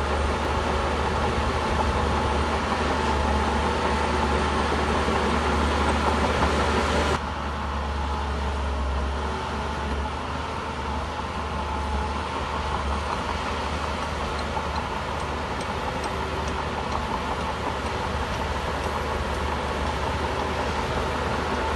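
Shantui bulldozer's diesel engine running steadily with a deep low hum. The sound drops abruptly about seven seconds in, then carries on at a slightly lower level.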